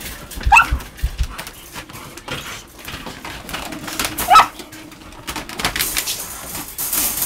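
Great Dane giving two short, high-pitched yelps at a balloon, one about half a second in and one about four seconds in, with a few dull thumps after the first and rustling near the end.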